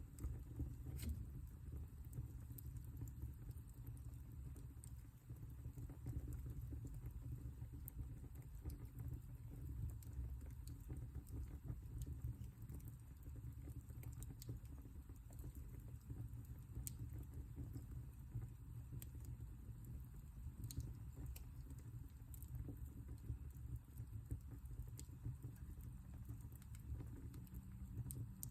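Wood fire burning in a fireplace: a low steady rumble of the flames with scattered sharp crackles and pops.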